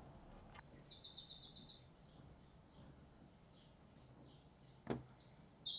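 Small songbird singing: a quick high trill, then a run of short high chirps about three a second. A single soft knock comes about five seconds in.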